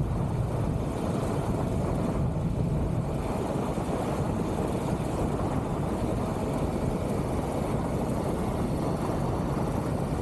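Steady rumble of a Triumph Tiger 1200 GT Pro motorcycle being ridden at road speed, heard on the rider's microphone as wind and road noise with the engine underneath, holding an even level throughout.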